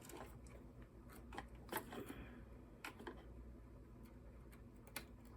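Faint, scattered small clicks and light taps of metal parts being handled as the governor linkage is hooked back onto a Tecumseh engine's carburetor, about five clicks over a few seconds, over a low steady hum.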